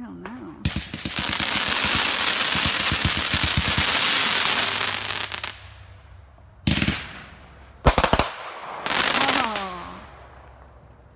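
Consumer fireworks going off: a rapid string of sharp cracks about half a second in that runs into dense crackling for about five seconds, then two sharp bangs about a second apart, followed by a short sound falling in pitch.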